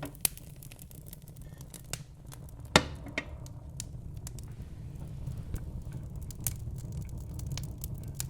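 Log fire in a fireplace crackling, with scattered sharp pops over a low steady rumble of the flames; the loudest pop comes a little under three seconds in.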